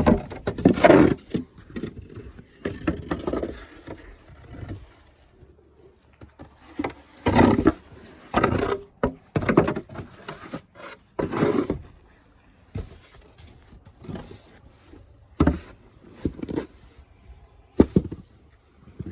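Irregular scraping and knocking, in bursts of about a second with short pauses and a few sharp clicks between them.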